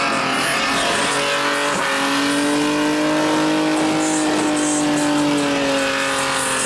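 Car engine held at high revs during a stunt-driving maneuver, its pitch rising slightly and then easing back down, over a steady hiss.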